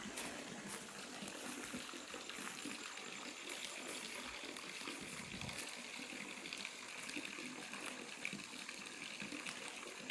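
Steady rush of running water, with no break or change, typical of a pool being filled.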